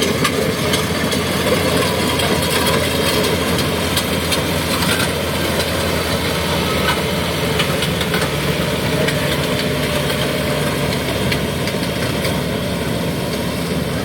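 Kubota DC70G combine harvester's diesel engine running steadily with the noise of its working machinery.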